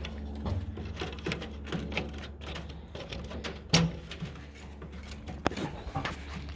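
Scattered light clicks and taps of handling at a pigeon loft trap, with a louder knock a little past the middle and another sharp tap a couple of seconds later, over a steady low hum.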